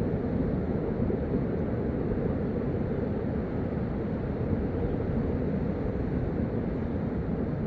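A steady low rumble with no distinct events, its level unchanging.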